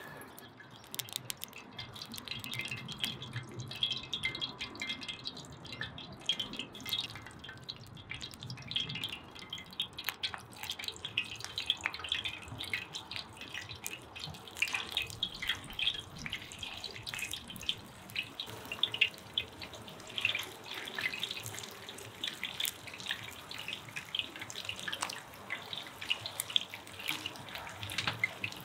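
Minced pike cutlets frying in hot oil in a frying pan: a continuous crackling sizzle made of many fast small pops.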